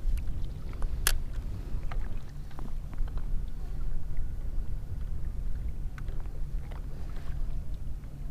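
Steady low rumble of wind and water around a fishing kayak, with scattered small clicks and knocks, one sharp click about a second in.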